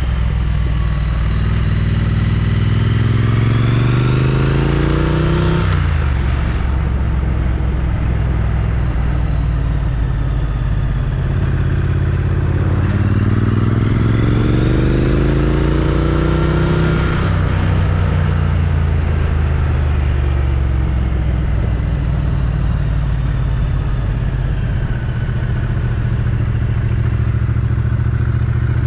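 Triumph Street Twin's 900 cc parallel-twin engine on its stock exhaust, under way on the road. The pitch climbs twice under acceleration and drops sharply each time, about six and about seventeen seconds in, as it shifts up. It then settles into a steady cruise.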